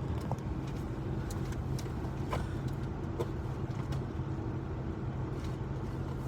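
Steady low hum inside a car's cabin, with a thin constant tone over it and a few faint small clicks.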